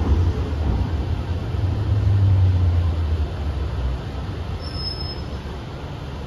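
MTR M-train electric multiple unit running with a low, steady rumble that fades away about three to four seconds in as the train slows toward a stop. A brief faint high tone sounds near the end.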